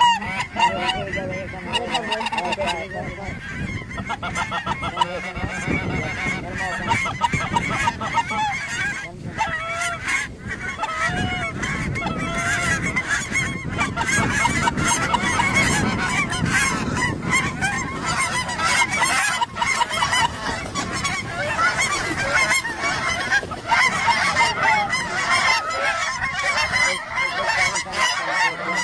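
A large flock of geese honking, many calls overlapping in a continuous clamour.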